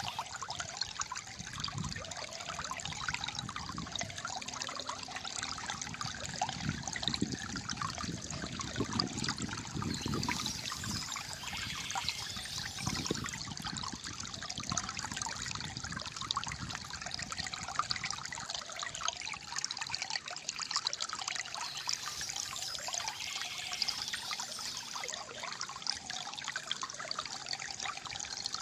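Shallow water trickling and gurgling steadily over stones, with some fuller low surges of flow about a third of the way in.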